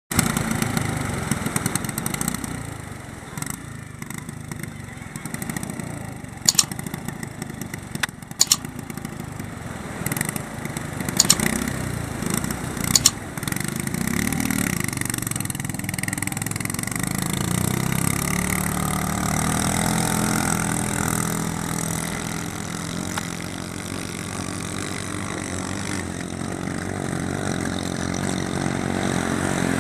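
Small 7 hp gasoline boat engine running, its speed rising and falling, then holding steadier from about halfway. Several sharp loud knocks break in between about six and thirteen seconds in.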